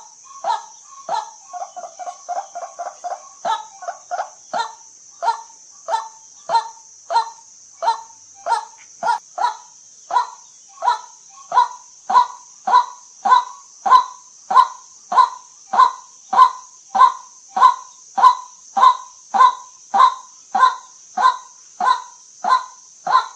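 White-breasted waterhen calling: a harsh 'kwak' note repeated over and over, about one and a half a second and growing louder. About two seconds in it breaks into a short, quicker run of lower notes. A steady high hiss runs behind it.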